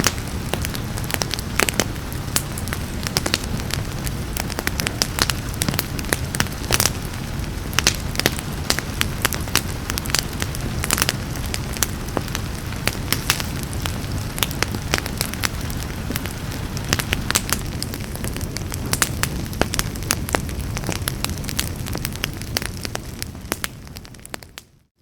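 Wood fire crackling in a fireplace: a steady low rumble of flames with dense sharp pops and snaps. It fades out to silence near the end.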